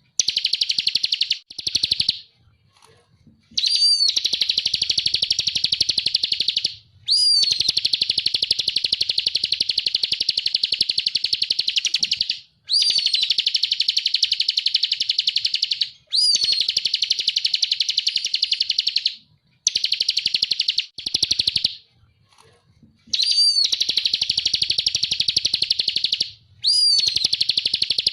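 Bar-winged prinia (ciblek kristal) singing: long, very rapid trills lasting several seconds each, each phrase opening with a high note that slides down. The trills repeat over and over with short pauses between them.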